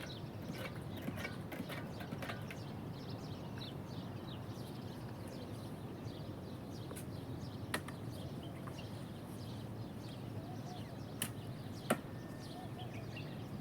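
Small birds chirping repeatedly in short calls over a steady low rumble, with a few sharp clicks near the end.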